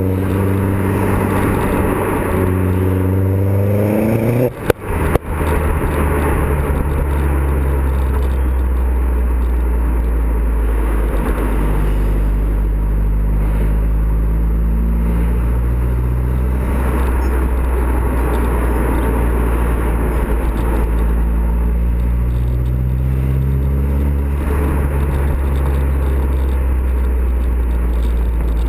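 Exhaust note of a Vauxhall Zafira VXR's turbocharged 2.0-litre four-cylinder through a custom exhaust, rising in pitch as it pulls through the revs for the first four seconds. After a short break in the sound about four and a half seconds in, it settles into a steady low drone.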